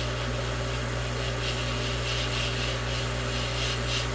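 Hot-air rework tool blowing steadily with a low hum, its airy hiss rising and falling. It is warming a freshly applied UV-curing compound to help it cure.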